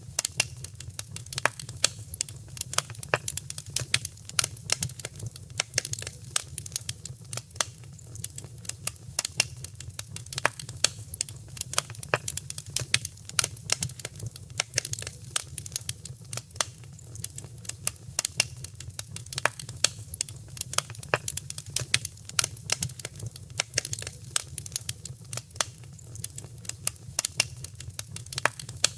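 Wood fire in a fireplace crackling: dense, irregular sharp pops and snaps over a steady low rumble of flame.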